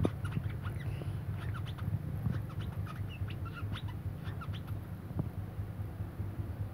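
A wiceh songbird calling in rapid, irregular short chirps and clicks, over a steady low hum.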